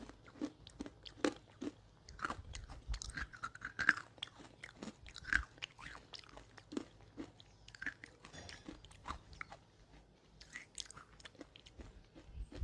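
Close-up chewing of dry roasted Nakumatt clay: a rapid, irregular run of sharp crunches and crackles as the clay breaks between the teeth.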